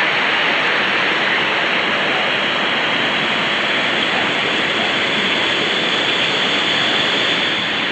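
Mountain waterfall rushing steadily, a loud, even wash of falling water.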